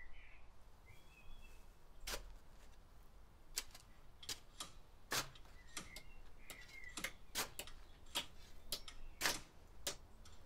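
Quiet background ambience of irregular sharp clicks, about one or two a second, with a few faint high chirps near the start and again about six seconds in.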